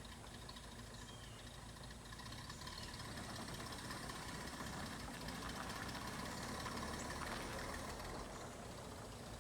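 A 1935 Chevrolet half-ton pickup's six-cylinder engine idling. It gets a little louder in the middle, then settles back.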